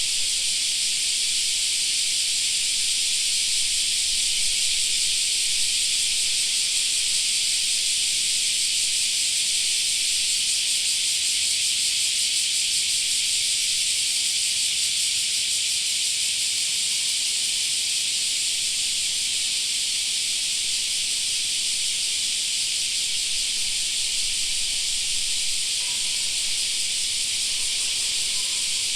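Chorus of cicadas shrilling in summer trees, a steady, dense, high-pitched sizzling drone that does not let up.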